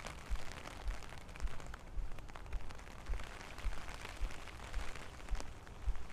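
Rain falling with a steady hiss and scattered drop ticks, under low thumps about twice a second in the rhythm of footsteps while walking.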